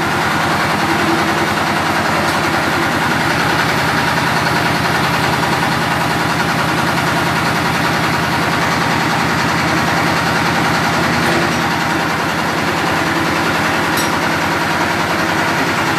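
Mitsubishi 8DC10 V8 diesel engine running steadily at idle, with a rapid, even firing pulse.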